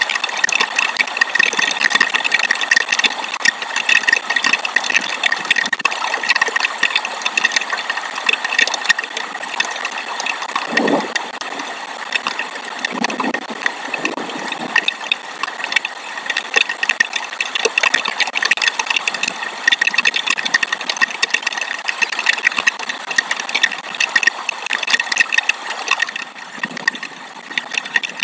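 Dense, steady chirping of insects such as crickets or bush crickets, a fast ticking trill. A couple of brief lower sounds come through about eleven and thirteen seconds in.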